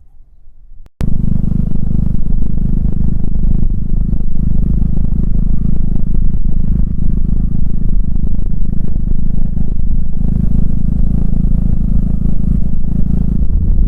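Honda Fusion MF02 scooter's single-cylinder engine running loud and steady on the move. It cuts in suddenly about a second in, after near silence, with a clatter that the owner puts down to a half-loose muffler.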